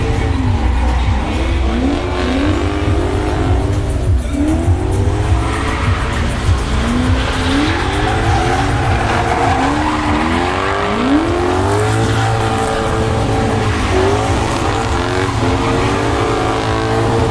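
V8 drift car sliding with its engine revving up and down again and again, the pitch climbing in repeated sweeps, over the hiss of squealing tyres.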